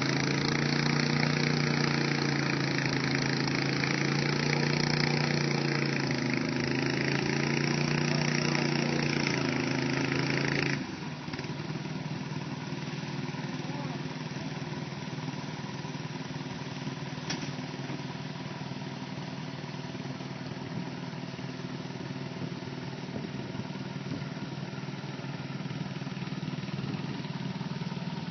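An engine running steadily with a slightly wavering pitch, then an abrupt cut about eleven seconds in to a quieter, steady engine noise.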